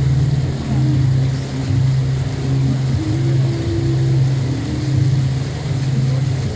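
Boat engine running steadily, a low hum that swells gently about once a second, with light noise from water or wind over it.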